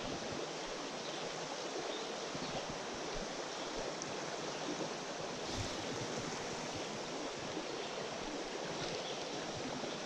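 Small mountain stream flowing over riffles: a steady, even rush of water.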